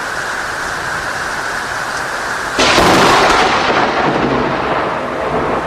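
Steady rain, then about two and a half seconds in a sudden loud thunderclap from a close lightning strike: a sharp crack that dies away over a couple of seconds.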